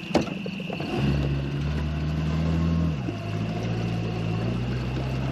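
Boat's outboard motor starts about a second in and runs steadily, then drops to a lower, slower idle about two seconds later.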